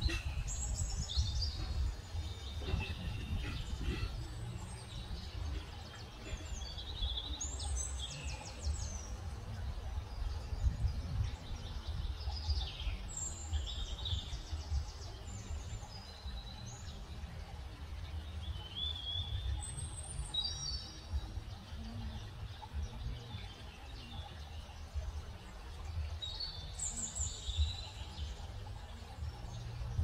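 Songbirds chirping and singing in short phrases every few seconds, over a steady low rumble.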